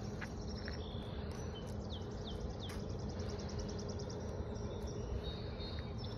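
Songbirds singing outdoors: short high notes, three quick downward-sliding whistles about two seconds in, then a fast even trill, over a steady low background rumble.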